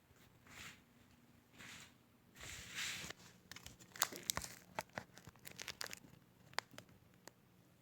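Soft rustling and crinkling swishes, then a quick run of sharp clicks and crackles starting about three seconds in.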